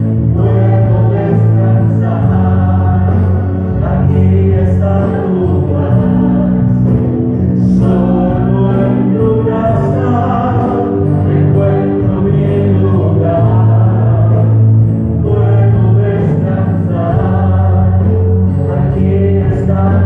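Worship music: a choir singing a gospel song over instrumental accompaniment with long held bass notes.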